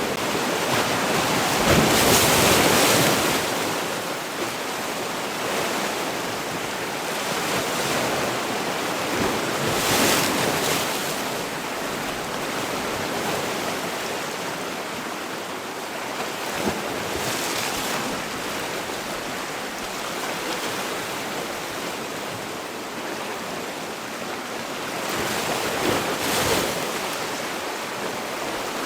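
Sea waves surging in roughly every eight seconds over a steady rush of surf, the loudest wave about two seconds in.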